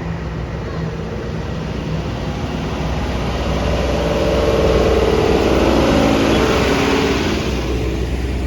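Tractor engines running as a convoy passes, with a low steady engine note throughout. One engine grows louder to its peak about five to six seconds in, then eases off.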